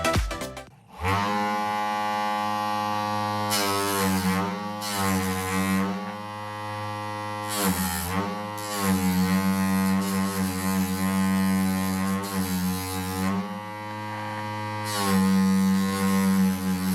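Homemade sander driven by an RS775 DC motor, running with a steady hum. Its pitch sags several times as sanding noise rises, as the abrasive is pressed against the work and the motor comes under load.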